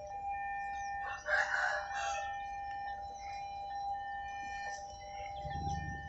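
Railway level-crossing warning bell ringing steadily with a repeating chime. About a second in, a rooster crows once over it, and near the end a low rumble sets in.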